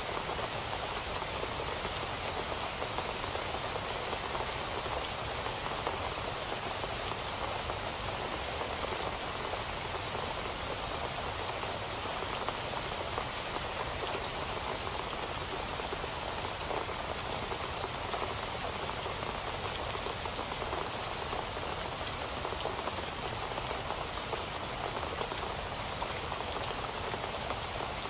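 Steady rain falling on a surface, an even hiss with the patter of many drops, unchanging throughout.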